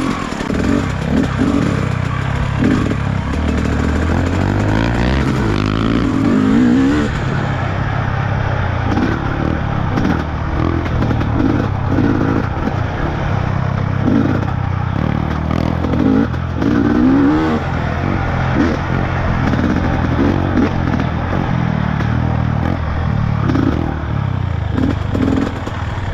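Trail motorcycle engine running under load on a rough dirt track, revving up and down again and again, with knocks and rattles from the bike over the uneven ground.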